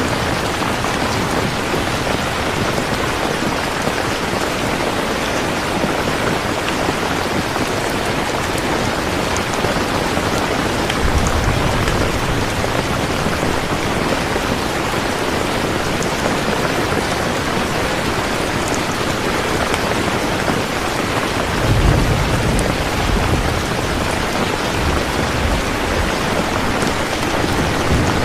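Steady heavy rain falling, with low rumbles of distant thunder about eleven seconds in and again a little past the middle, the second the louder.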